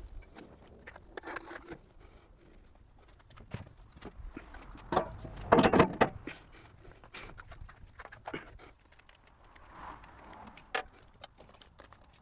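Irregular knocks, clunks and footsteps of someone shifting things about in a garage, with a louder clattering, rustling stretch about five to six seconds in.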